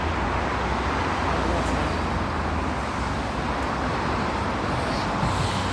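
Steady noise of nearby road traffic, a continuous rumble of passing vehicles.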